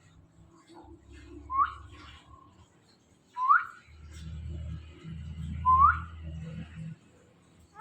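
Indian ringneck parrot giving three short, sharply rising whistles about two seconds apart, with a low rumble underneath.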